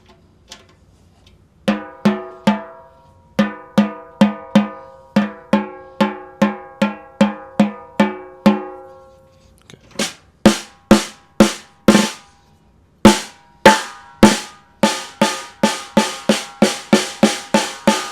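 Ludwig Acrolite aluminium-shell snare drum struck repeatedly while it is being tuned. First comes a steady run of about two hits a second, each with a clear ringing tone. After a short pause comes a run of sharper, brighter hits that quicken toward the end.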